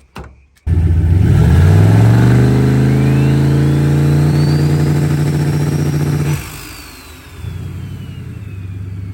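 Turbocharged 5.3 L LS V8 revved up and held on the two-step launch limiter, its pitch climbing for about two seconds and then holding, while a turbo whine rises over it. About six seconds in it drops back to idle and the turbo whine falls away slowly as it spools down.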